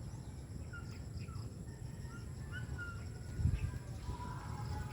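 Scattered short bird chirps over steady low background noise, with one dull thump about three and a half seconds in.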